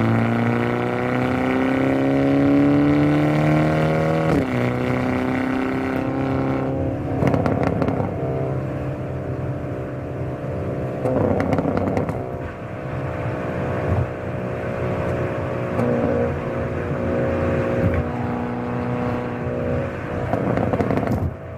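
Hyundai Avante N (Elantra N) 2.0-litre turbo four-cylinder under hard driving. The engine note climbs steadily for about four seconds, then drops sharply at a quick upshift. It then runs at steadier revs, broken about four times by short rough bursts from the exhaust.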